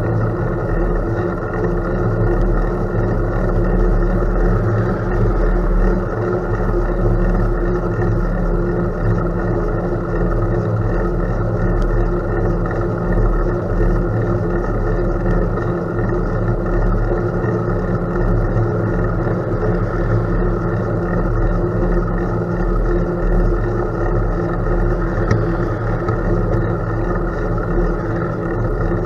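Steady low rumble of wind buffeting the camera microphone, mixed with rolling tyre noise, while cycling along a gravel road.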